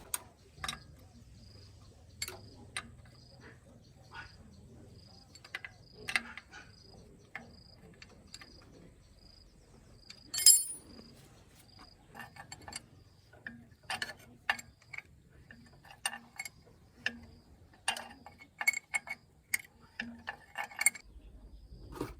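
Irregular sharp clicks and knocks, the loudest about ten seconds in. Under them runs a faint high chirp repeating about twice a second.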